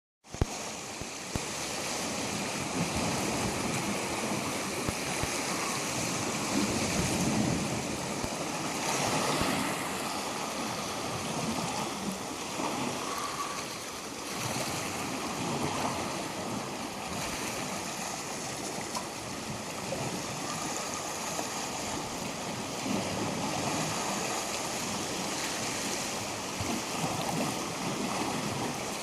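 Waves washing up onto the shore and draining back: a continuous rushing wash that swells and eases gently.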